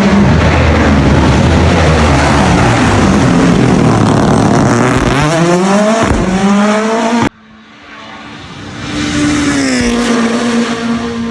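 Rally car passing close at full speed, its engine climbing sharply in pitch as it accelerates hard through the gears. About seven seconds in the sound cuts abruptly to a quieter engine note from a car further off, rising and then settling.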